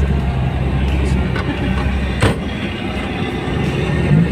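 A car's engine running, heard inside the cabin as a steady low rumble, with one sharp knock about two seconds in.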